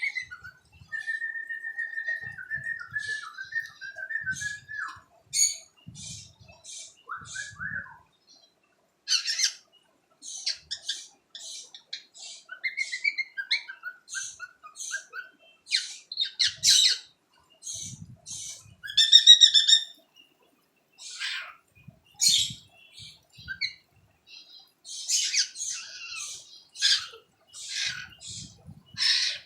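A young cockatiel chattering: a warbled whistle in the first few seconds, then a long run of short, high chirps and squawky notes with brief gaps between them.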